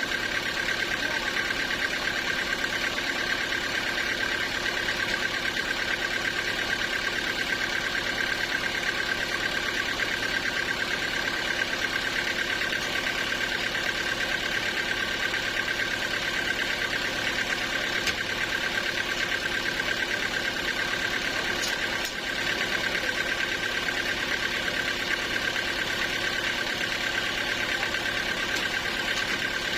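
Sawmill machinery running steadily, with a steady high whine over the engine noise and a brief dip about two-thirds of the way through.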